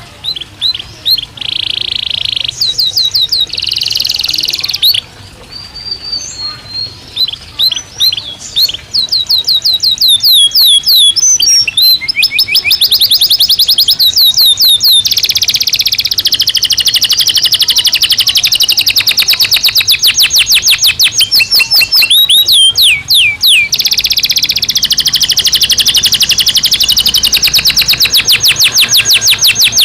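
Domestic canary singing: short phrases at first, then from about ten seconds in a long unbroken run of fast, rapidly repeated trills that shift from one pitch to another.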